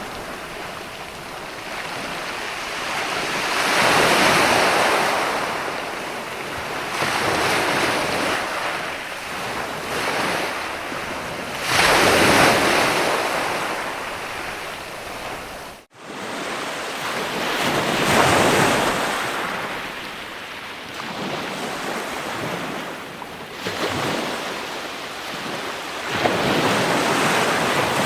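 Ocean waves breaking and washing in, the surf swelling and ebbing every several seconds, with a split-second dropout just past the middle.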